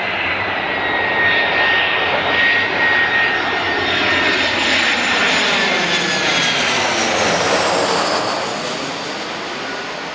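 Airbus A319 jet airliner on final approach passing by, its turbofan engines giving a steady rushing noise with a high whine that slides slightly down in pitch. It is loudest through the middle and eases off near the end.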